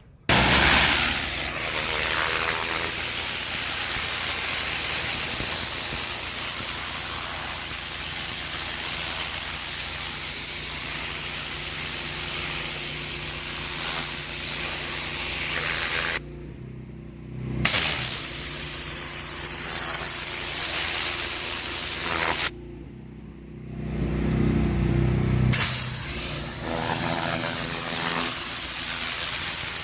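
High-pressure water spraying from a pressure washer with its engine-driven pump running steadily underneath. The spray cuts off twice for about a second, around the middle and again a few seconds later, leaving only the engine running before the spray comes back.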